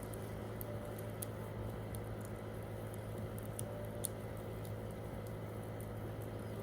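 Wood campfire burning, with scattered small crackles and pops over a steady low rumble; the sharpest pop comes about four seconds in.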